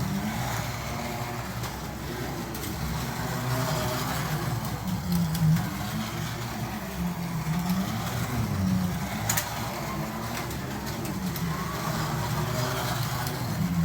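Carrera Digital 132 slot cars' electric motors running around the track, their whine rising and falling in pitch over and over every couple of seconds, with a few sharp clicks.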